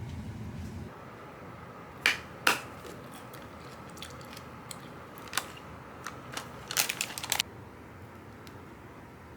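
A dull rumble cuts off about a second in. Then a few sharp clicks and a short run of crackling handling noises follow, typical of food packaging or utensils being handled, over a faint steady hum.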